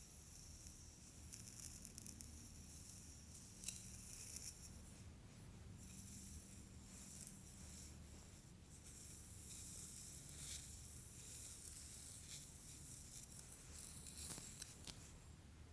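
Soft swishing and rustling strokes of hair being handled, faint and repeated, with a sharp tick a little under four seconds in and a few more ticks near the end.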